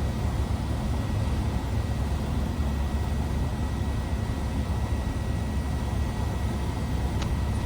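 Cessna 172R's four-cylinder Lycoming engine and propeller running steadily inside the cabin, a low, even drone with a faint steady high whine over it. A faint click about seven seconds in.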